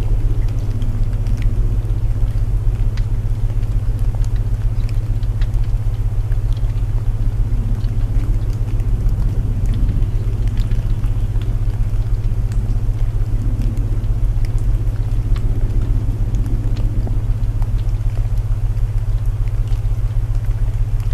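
Layered sleep soundscape: a steady low binaural-tone hum, with rain and a crackling wood fire faint beneath it, sparse crackles ticking through.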